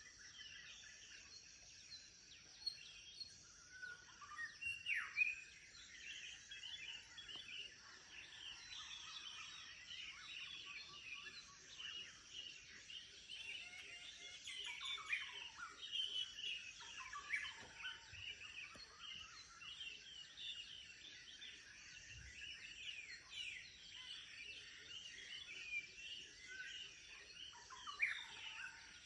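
Many small birds chirping and trilling over one another in a morning chorus, with quick overlapping calls throughout and a steady high hiss beneath.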